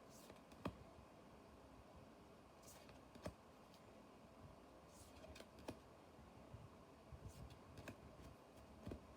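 Near silence with faint, scattered clicks and taps, roughly one every second or two, from trading cards being handled and sorted.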